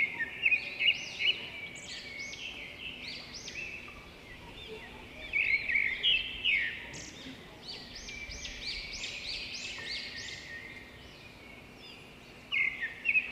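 Small birds chirping in quick runs of short rising-and-falling notes, with a faint steady hum underneath.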